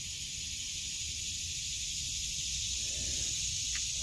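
Steady high-pitched chorus of summer insects, with a low rumble of wind on the microphone underneath.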